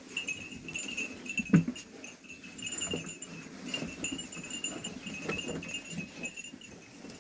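Sheep bells jingling steadily as the flock moves into the pen, with a few soft knocks, the clearest about a second and a half in.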